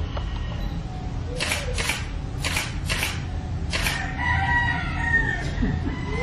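Five short hissing bursts, then a drawn-out animal call held at a steady pitch, over a constant low hum.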